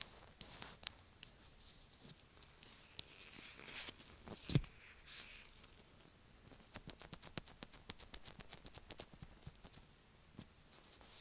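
Latex-gloved fingers tapping and rubbing directly on an earphone microphone, heard very close up. There are scattered taps and a louder tap about four and a half seconds in, then a quick run of light taps for about three seconds.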